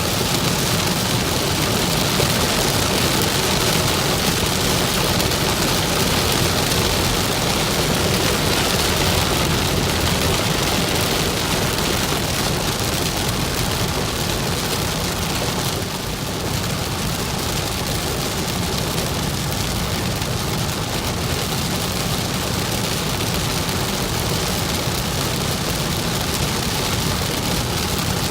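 Steady heavy rain pelting a moving car, mixed with the car's road noise.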